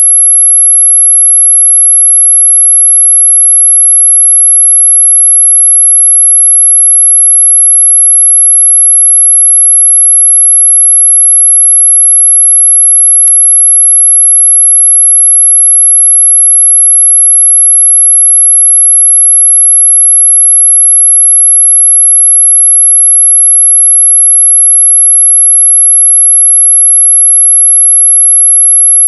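A single steady, very high-pitched electronic tone, held loud and unchanging: the 'ultrasonic' mosquito-repellent sound. A faint click comes about thirteen seconds in.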